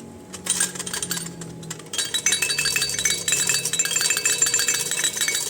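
Small hard objects clinking and rattling together in a dense, rapid clatter of sharp ticks with short high rings. It is sparse at first and becomes continuous from about two seconds in.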